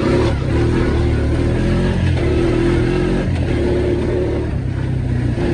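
ATV engine running at low to mid throttle, the tone holding steady with a brief dip about three seconds in.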